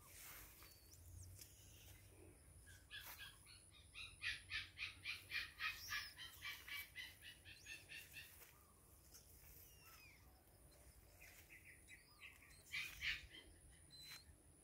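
A bird calling faintly: a fast run of repeated chirping notes, about four a second, lasting some four seconds, then a shorter burst near the end.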